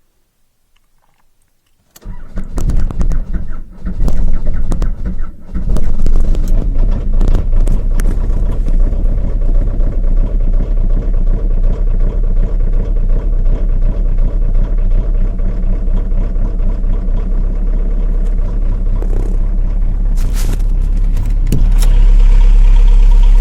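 Škoda Felicia pickup's 1.9-litre diesel engine cold-started at −26 °C: after about two seconds of near silence the starter cranks unevenly for a few seconds, the engine catches about six seconds in and settles into a steady idle. Near the end it gets louder.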